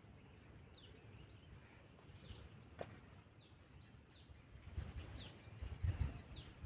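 Small birds chirping faintly in the open air, short high calls scattered throughout. From about halfway, irregular low thumps and rumbles grow louder.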